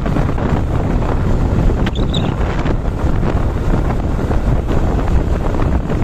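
Heavy wind buffeting on the microphone of a moving motorcycle, with the bike's running engine and road noise underneath.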